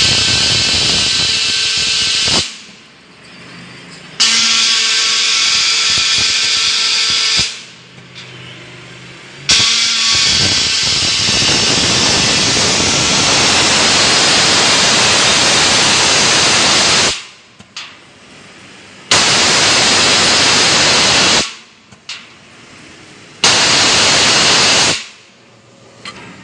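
CNC plasma cutter's torch arc hissing loudly in five separate runs of about two to eight seconds each, each switching on and cutting off abruptly, with quieter machine noise in the gaps between.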